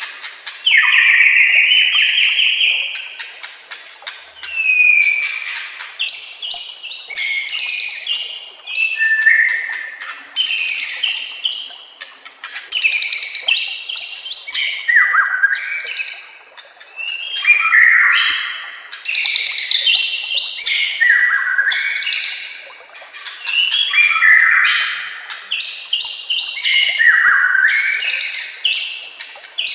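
White-rumped shama (murai batu) singing a long run of varied song phrases: clear whistled notes and rapid trills, a new phrase every second or two.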